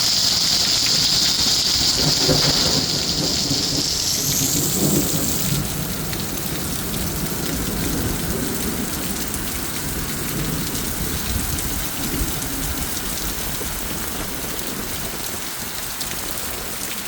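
Heavy rain pouring steadily during a thunderstorm, with thunder rumbling about two seconds in and again around five seconds. A loud rushing hiss at the start rises in pitch and stops after about five seconds, leaving the rain.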